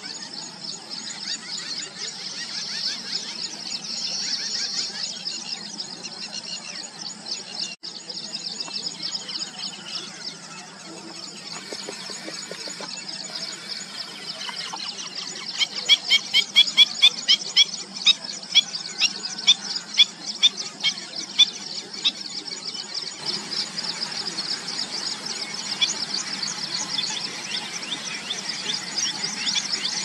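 Birds calling in a shrill, high-pitched chatter of quick repeated notes. About halfway through comes a louder run of sharp, squeaky calls, two or three a second, lasting several seconds.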